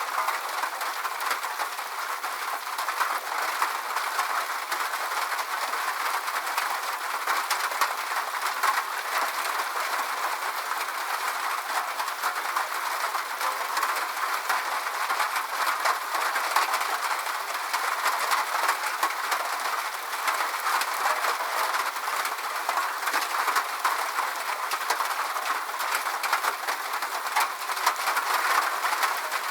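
Steady rain falling, a continuous hiss with a dense patter of individual drops.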